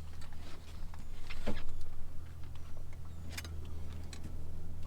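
Handling noise of a hanging fish scale and landing net being checked and adjusted: a few sharp clicks and knocks over a steady low rumble.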